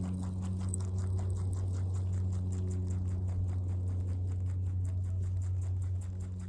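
Rabbit chewing clover: a rapid, steady run of small crunching clicks from its teeth. A steady low hum runs underneath and is louder than the chewing.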